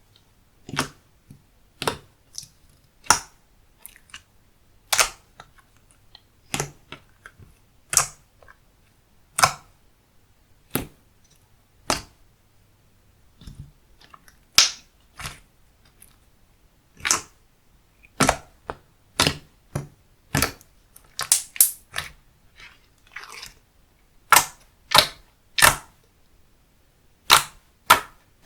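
Handmade slime being pressed and squeezed by hand, giving a run of sharp pops and clicks, roughly one a second, coming closer together in the second half.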